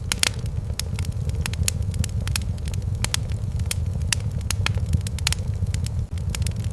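Wood fire burning in a fireplace: frequent sharp crackles and pops, about three a second, over a steady low rumble of the flames.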